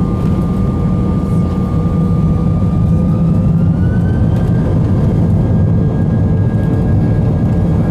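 Airbus A319 jet engines running at high power, heard from inside the cabin: a loud, steady rumble with a thin whine that rises in pitch about three to four seconds in.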